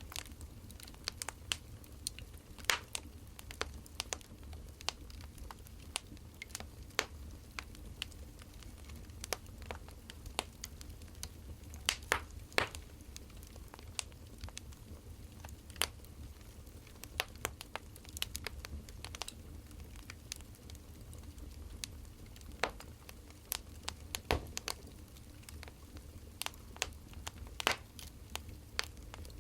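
Wood fire crackling: irregular sharp pops and snaps, a few each second, over a steady low rumble.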